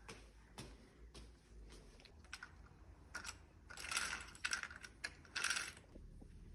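A series of light clicks and taps, like objects being handled, with two longer, louder noisy sounds about four and five and a half seconds in.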